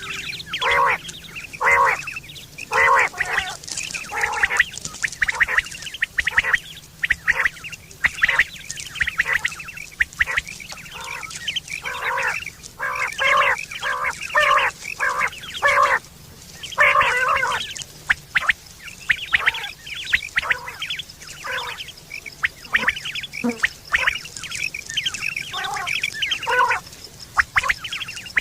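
Quail calling over and over in short, uneven bursts, one call after another with hardly a pause.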